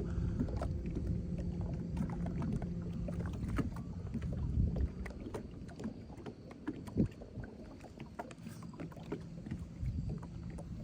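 Small fishing boat on the water: a steady low hum for the first few seconds over a low rumble, then scattered light knocks, with one sharper knock about seven seconds in.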